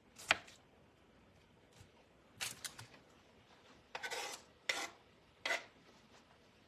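Kitchen utensils scraping and knocking in a few short, separate strokes, about five in all, with quiet in between.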